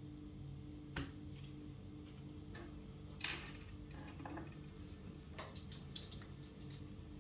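Scattered sharp clicks and taps of hard plastic IBM Model M keyboard parts being handled: single clicks about a second and three seconds in, then a quick cluster of several near the end, over a faint steady hum.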